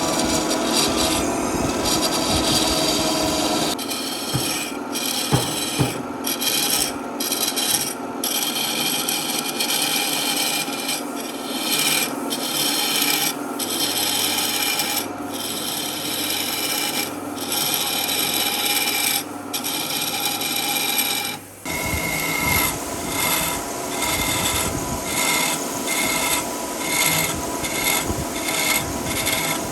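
Wood being worked by hand with an abrasive tool, in repeated rubbing strokes about one a second, quickening to about two a second in the last third. The sound changes abruptly twice.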